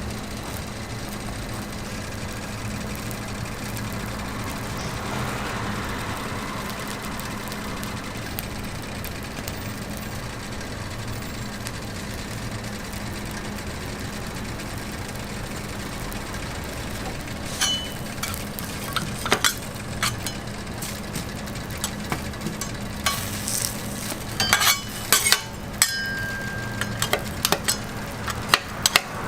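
A steady low mechanical hum, with sharp metal clinks and taps of cooking utensils starting about two-thirds of the way through and coming thick near the end.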